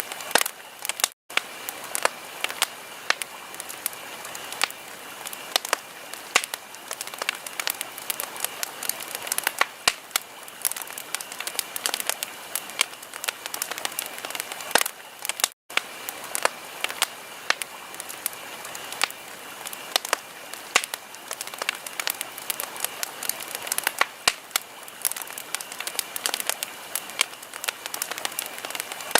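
Wood fire crackling in a fireplace: dense, irregular pops and snaps over a steady hiss, broken twice by split-second gaps.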